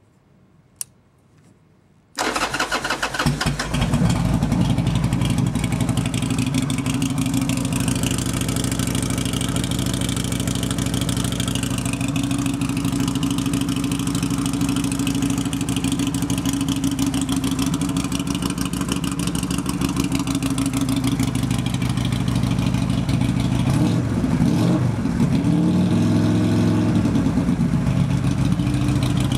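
Buell M2 Cyclone's air-cooled V-twin on a cold start. There is a click about a second in, then the engine cranks and catches about two seconds in and settles into a steady idle. Near the end the revs dip and rise a few times.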